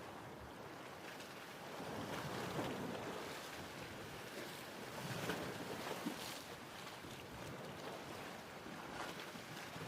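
Ocean waves washing in, a steady rushing noise that swells and eases.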